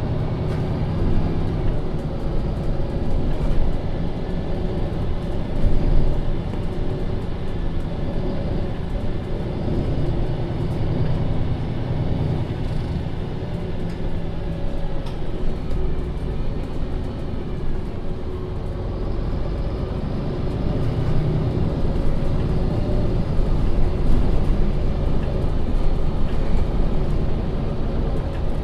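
MAN Lion's City NL 283 city bus running on the road: steady diesel engine and drive noise, growing louder as the bus picks up speed about two-thirds of the way through.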